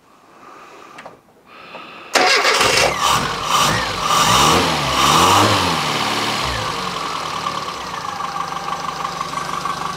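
Austin Metro's BMC A-series four-cylinder engine, newly fitted with a higher-output 0.8-ohm ignition coil, catches suddenly about two seconds in. It revs up and down a few times, then settles to a steady idle.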